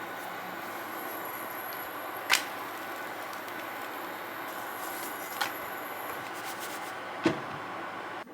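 Steady rumbling noise inside a moving vehicle, with three sharp clicks spread through it.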